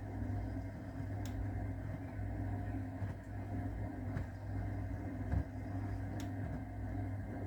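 AEG Öko-Lavamat 693 washing machine running in its wash phase, its motor turning the drum with a steady hum and a few light clicks.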